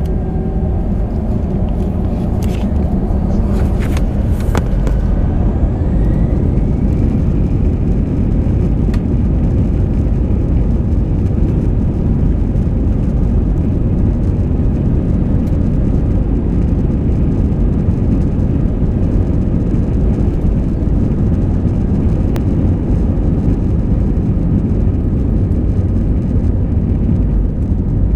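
Airbus A320 jet engines spooling up for take-off, heard inside the cabin: a whine rising steadily in pitch a few seconds in, over a loud, steady engine and rolling rumble, with a few short rattles near the start.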